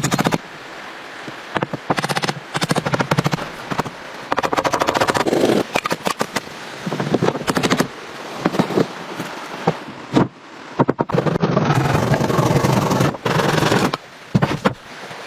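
Rapid runs of sharp knocks and clicks, with stretches of rough scraping noise between them, typical of wood being chopped and worked with hand tools.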